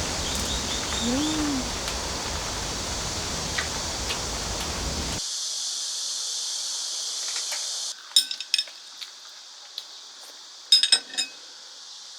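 Steady rain hiss, which is loud at first and then thins to a high hiss after a sudden change about five seconds in. Near the end come two quick clusters of sharp clinks, the first about eight seconds in and the second about eleven seconds in, like dishes or utensils being handled.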